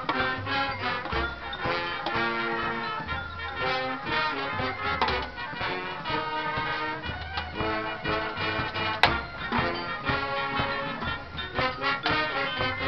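High school marching band playing: brass holding chords over low bass notes, with drum and percussion hits throughout and a sharp hit about nine seconds in.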